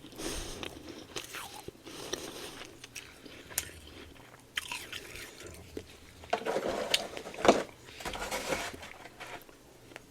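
Close-up crunching and chewing of freezer frost bitten from the hand, in irregular crunchy bites. The loudest, sharpest bites come a bit past the middle.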